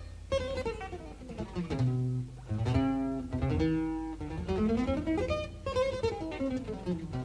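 Acoustic jazz guitar playing quick rising and falling runs over a low bass note, with chords held about two and three seconds in. This is a live concert recording played back from cassette tape.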